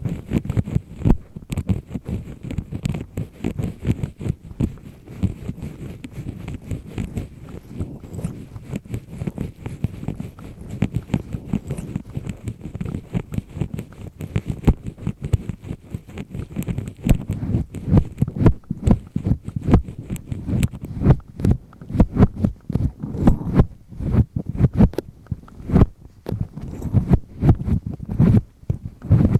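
A double-disc ear pick scraping firmly inside an ear canal: rapid, irregular scratching strokes, dull and close up.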